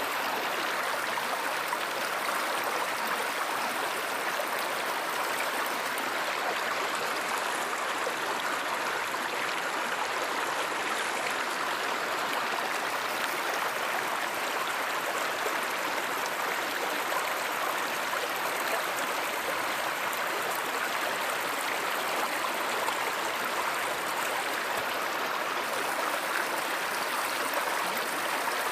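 Water flowing in a stream, a steady rushing and babbling.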